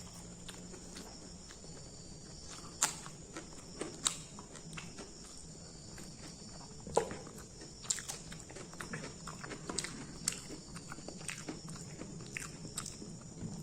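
A person biting and chewing crunchy food, with irregular sharp crunches and wet mouth clicks.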